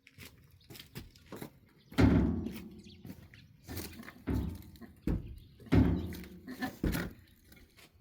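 Irregular dull thuds of wood being knocked or set down, about six over several seconds, the first near two seconds in the loudest.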